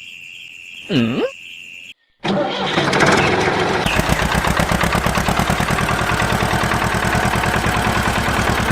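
Small engine starting up about two seconds in, after a brief cut, then running with a rapid, steady firing beat. Before it, a faint whine dips and rises in pitch once.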